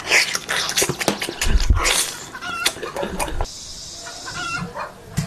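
Chicken clucking in short separate calls, among scattered clicks and knocks.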